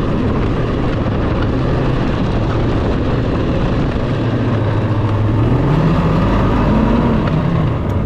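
Snowmobile engine running under throttle. It holds a steady pitch, then revs up and back down a couple of times in the last few seconds.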